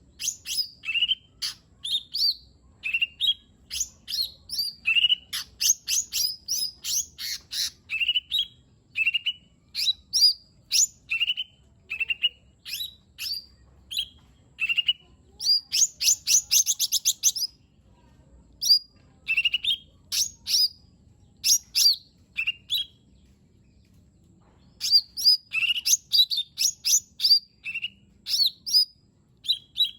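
Cucak ijo mini, a small leafbird, singing a fast, varied string of short, sharp whistled notes and chips, many sweeping up or down in pitch. There is a dense rapid run of notes about sixteen seconds in, and brief pauses near eighteen and twenty-four seconds.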